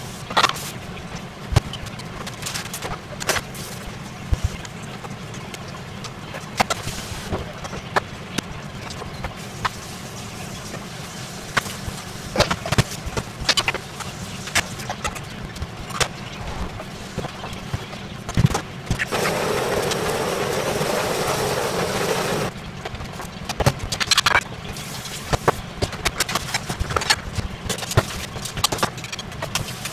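Kitchen work sounds: scattered clicks and knocks of utensils and cookware over a steady low hum, with a rush of noise lasting about three seconds, starting about nineteen seconds in.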